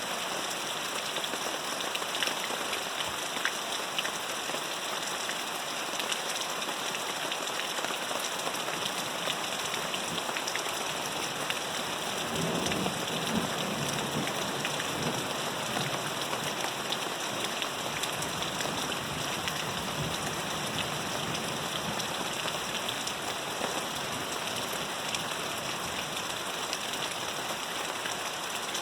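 Steady rain falling, a dense hiss peppered with the ticks of individual drops, with a brief low rumble near the middle.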